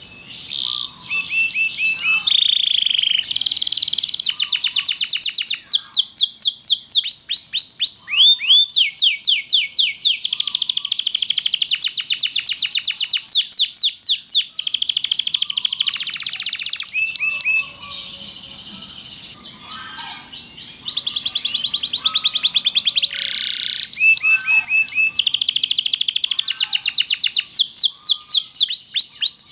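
Domestic canary singing a long, near-continuous song of fast trills, each a rapid run of repeated falling notes. About eighteen seconds in, it sings a softer stretch for a few seconds, then the loud trilling resumes.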